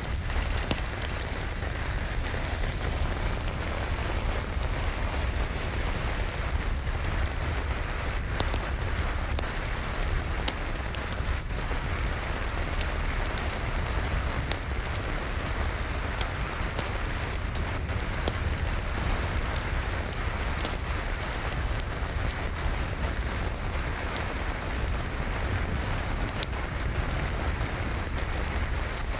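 Steady rain with a crackling fireplace: an even hiss of rain over a steady low rumble, with scattered sharp crackles throughout.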